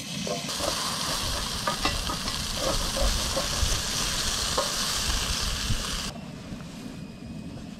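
Diced potatoes frying and sizzling in a stainless steel pan, stirred with a wooden spatula that knocks lightly now and then. The sizzle cuts off suddenly about six seconds in.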